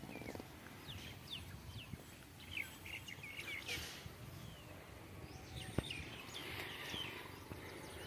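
Faint rural ambience with scattered short bird chirps, and a single sharp click about six seconds in.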